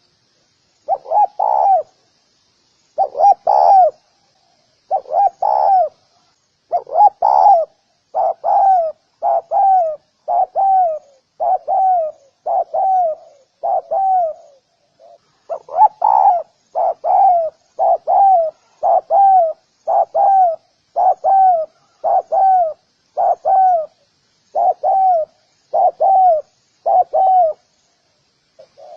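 Spotted dove cooing: a long run of low coos, roughly one a second, each note dipping in pitch. The coos come in phrases with short pauses between them.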